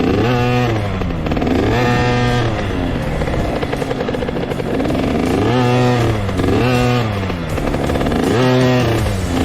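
Small two-stroke dirt bike engine revving, its pitch climbing and falling back five or six times as the throttle opens and closes.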